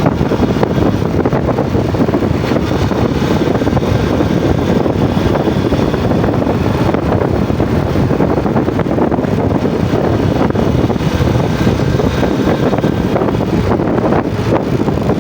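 Yamaha Jupiter MX four-stroke single-cylinder underbone motorcycle running steadily while being ridden, mixed with wind buffeting on the microphone.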